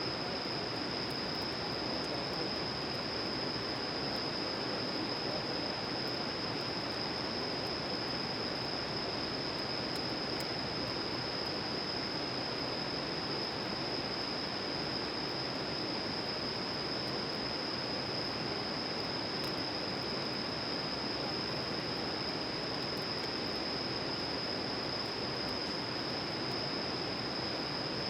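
Steady outdoor ambience of rushing, like flowing water, under a constant high-pitched insect chorus, with a few faint ticks.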